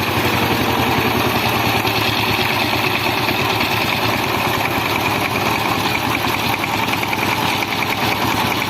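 Small motor of a DIY mini tractor flour mill running steadily, with a fast even buzzing rattle.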